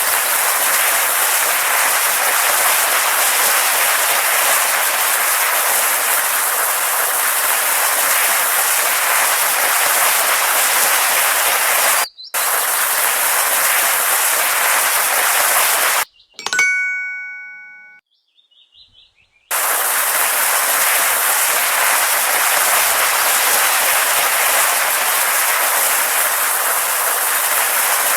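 A steady, loud hiss-like noise, cut off abruptly twice. During the second break a single bell-like chime rings out and fades away.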